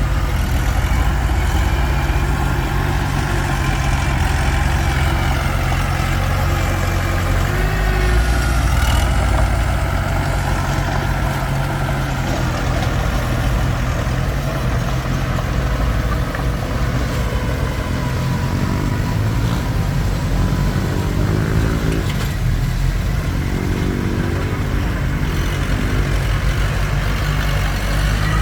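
Komatsu D21P bulldozer's diesel engine running steadily under working load, its pitch rising and falling a few times in the second half.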